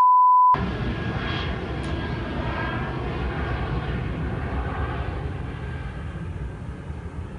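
Fixed-wing airplane flying past, its engine noise steady and then slowly fading away. It opens with a steady electronic censor bleep that ends about half a second in.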